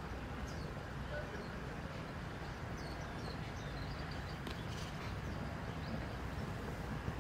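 Birds chirping faintly in many short calls over a steady low rumble of outdoor background noise.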